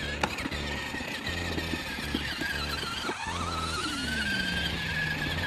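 Electric ride-on toy motorcycle driving along, its battery motor and gears giving a steady high whine that wavers and climbs a little partway through, with a lower tone sliding down in pitch near the middle.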